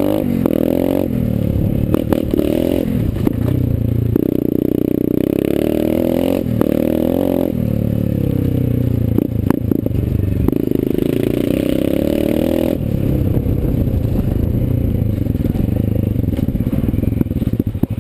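Dirt Runner pit bike engine running while it is ridden, revving up and easing off in several surges with brief breaks between them. Near the end the throttle closes and the engine drops toward a slower, pulsing idle.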